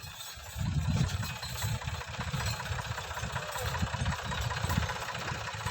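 Tractor's diesel engine running, with a low, uneven pulsing chug.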